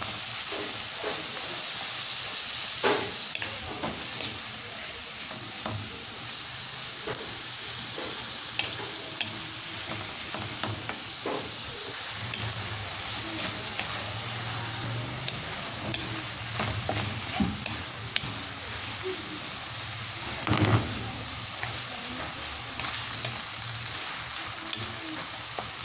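Chopped tomatoes, onions and garlic sautéing in oil in a wok: a steady sizzle, with scattered scrapes and taps of a wooden spatula stirring against the pan, one louder knock about three-quarters of the way through.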